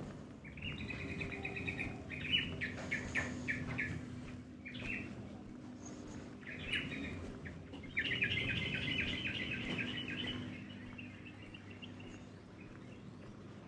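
Small birds chirping in quick chittering runs, strongest about eight seconds in, over a steady low hum.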